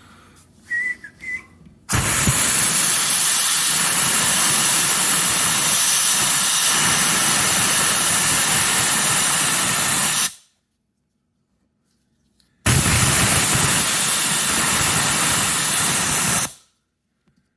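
Air-powered abrasive spark plug cleaner blasting a chainsaw spark plug: two long bursts of loud hiss, the first about eight seconds, the second about four, with a short pause between.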